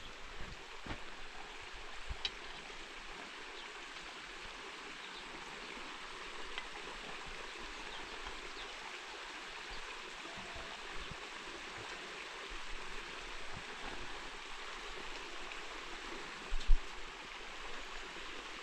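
Water running in a steady rush, with a few small clicks and one sharp knock near the end.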